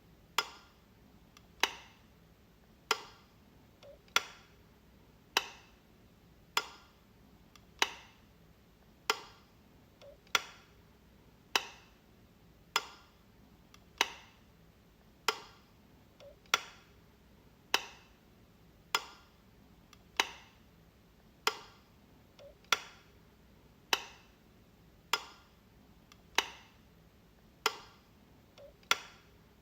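Wall light switch clicking over and over, one sharp click about every 1.2 seconds at a steady pace.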